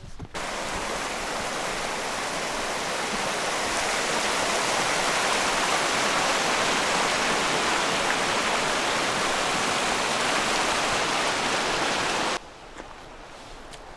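Steady rush of fast-flowing water, like a mountain stream or small waterfall, loud and even throughout. It starts suddenly and cuts off sharply about twelve seconds in.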